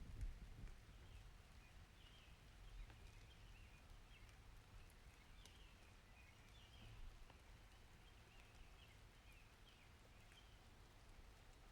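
Faint outdoor ambience: small birds chirping in short, irregular calls over a low, steady rumble, with a soft thump about a quarter of a second in.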